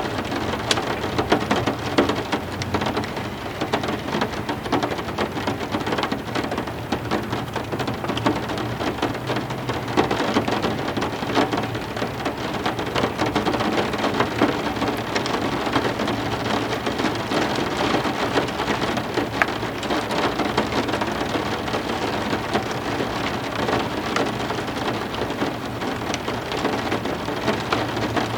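Heavy rain falling steadily, a dense even hiss of drops spattering on hard surfaces with many individual drop impacts.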